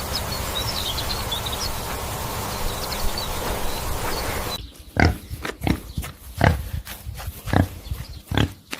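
A steady background hiss with a few faint high chirps, then, after an abrupt change about halfway through, a series of short low grunts from a farm animal, about one every half second.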